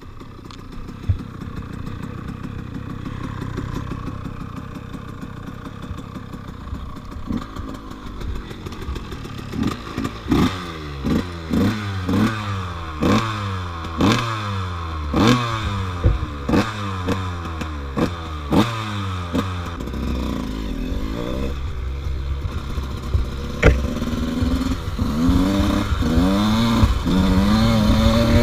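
KTM 85 two-stroke dirt bike engine being ridden. It runs steadily at first, then revs up over and over in quick surges about once a second, and climbs again toward the end.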